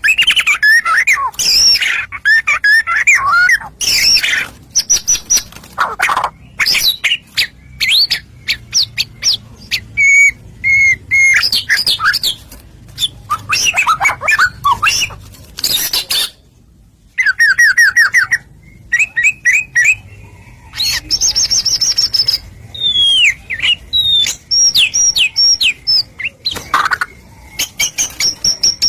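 White-rumped shama (murai batu) singing loudly: a varied song of gliding whistles, rapid trills and harsh chattering notes in quick phrases, broken by short pauses.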